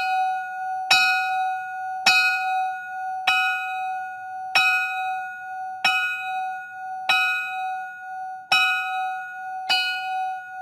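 A single bell struck repeatedly, about once every second and a quarter, each strike ringing on at the same pitch until the next; about nine strikes.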